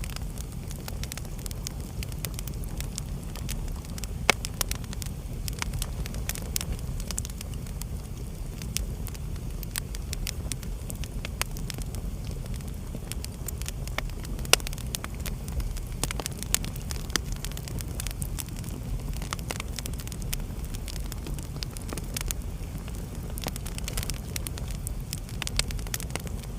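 Wood fire burning in a fireplace: a steady low rumble of the flames with frequent irregular crackles and pops, a few sharper snaps standing out.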